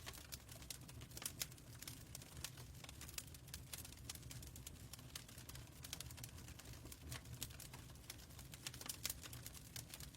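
Fireplace crackling: irregular sharp pops and snaps over a faint, steady low rumble.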